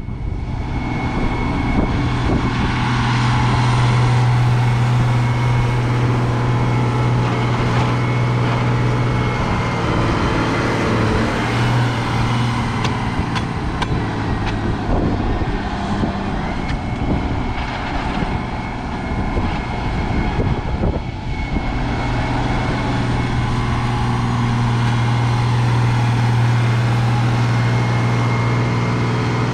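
Heavy diesel engine of farm machinery running steadily at working speed, its hum dropping away for several seconds in the middle and then coming back strong.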